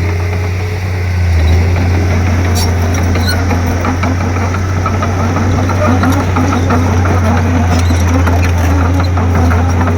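Komatsu D31P bulldozer's diesel engine running steadily under load with a low drone, over scattered clicks and rattles.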